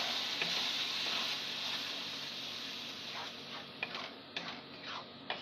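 Tomato purée frying in hot oil and spices in a kadhai, the sizzle fading away as it settles. In the second half a wooden spatula scrapes and taps against the pan in quick strokes, about two or three a second, as the masala is stirred.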